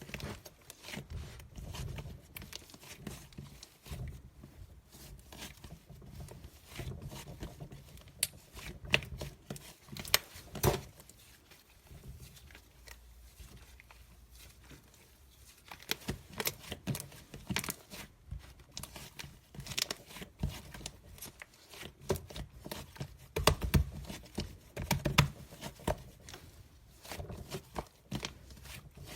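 Close-up handling of crinkly material: irregular crinkling and tearing with sharp clicks and taps, busiest in the second half.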